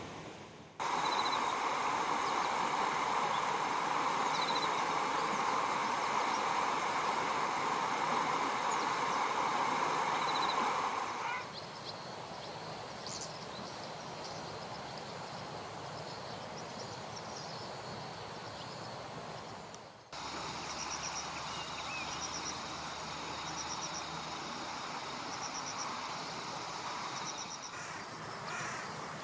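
Insects calling in a steady, high continuous drone, with short repeated chirps later on. A louder noise sits underneath for the first third, and the background changes abruptly twice.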